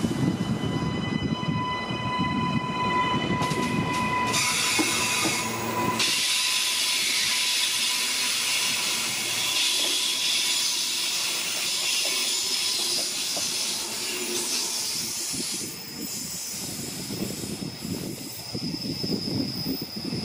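Queensland Rail electric suburban train running past the platform: a low rumble with a steady electric whine for the first six seconds, then a high hiss of wheels on rail as the carriages go by. A thin, steady high-pitched wheel squeal sets in about three-quarters of the way through.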